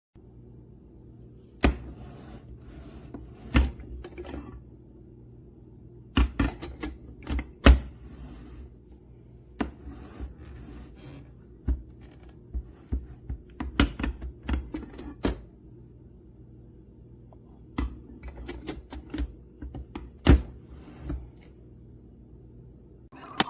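BLACK+DECKER 12-cup drip coffee maker brewing: irregular pops and sputters with short hissing spurts as it heats and pushes water through, over a steady low hum.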